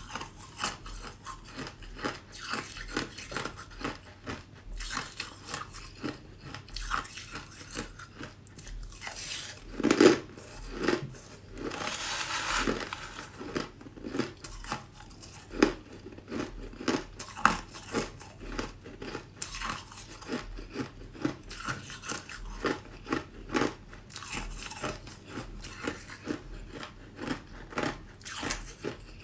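A person biting and chewing ice, a close run of sharp crunches and cracks with one loud crunch about ten seconds in.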